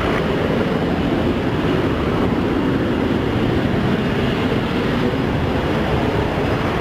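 Jet airliner's engines at takeoff power: a steady, loud rushing rumble.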